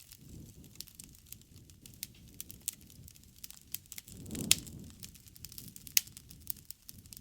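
Wood campfire crackling, with many small irregular snaps and two louder pops about halfway through and near the end. A low rushing sound swells briefly around the middle.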